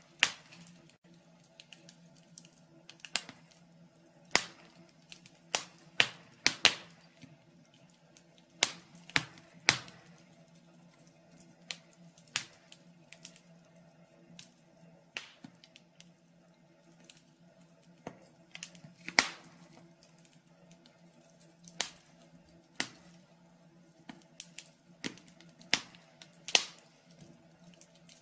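Wood fire crackling in a fireplace: irregular sharp pops and snaps, a few louder ones standing out, over a low steady hum.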